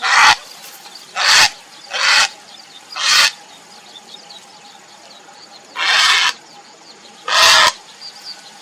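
Grey heron calling for a mate with harsh, rasping croaks, six in all. Four come about a second apart, then after a pause of a couple of seconds two more follow, a second and a half apart.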